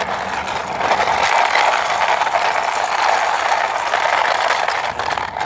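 Plastic toy car, missing one wheel, being run along, its wheels and gears giving a steady mechanical rattle.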